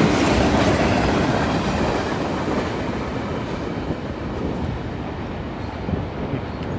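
CN freight train cars rolling past at speed, their wheels clattering over the rails. The noise fades gradually as the train moves on.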